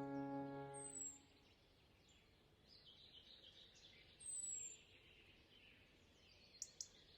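A held musical chord ends about a second in, leaving faint outdoor ambience. In it a bird gives a short high falling whistle twice, and two quick clicks come near the end.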